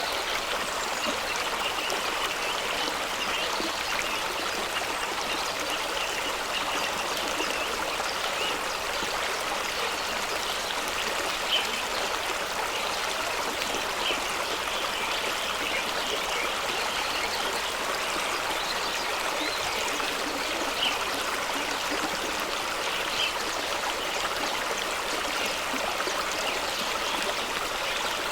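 A fast-running stream rushing and splashing over rocks, a steady even wash of water with a few brief louder splashes.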